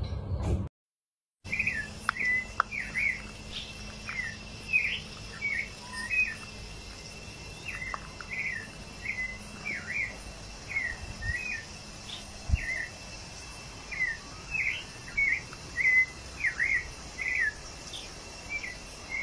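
Small birds chirping in short, repeated calls, one or two a second, after a brief silence about a second in. A thin steady high tone and a faint hiss run underneath.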